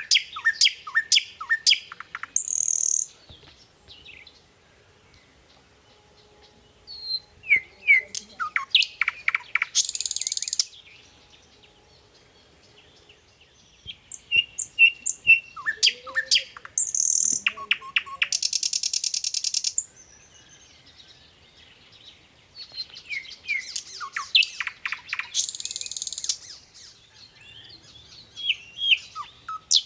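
A songbird singing in repeated phrases, about every seven seconds. Each phrase is a run of quick, sharp chirps that ends in a high buzzy trill.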